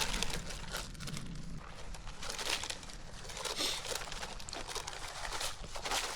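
A plastic bag of frozen tater tots rustling and crinkling as they are handled, with scattered small clicks and rustles, irregular throughout.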